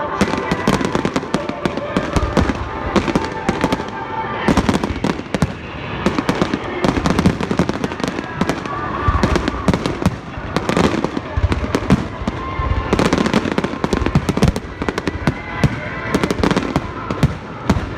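Fireworks display going off: a dense, unbroken barrage of bangs and crackles, one close on another.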